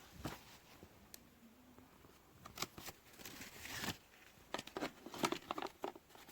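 Handling noise: a scatter of light clicks and short rustling bursts, busiest in the middle and latter part.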